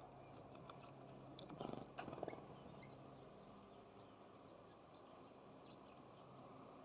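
Songbirds at a feeder: a quick cluster of light taps and scuffles about two seconds in, then two brief, high chirps, over faint outdoor hiss.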